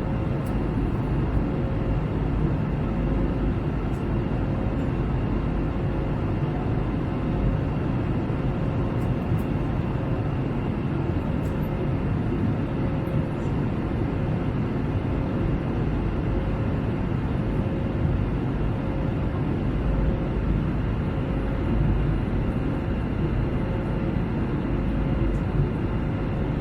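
Steady roar of engines and airflow heard inside the cabin of an Airbus A321 airliner in flight, even and unbroken, with a faint steady hum running through it.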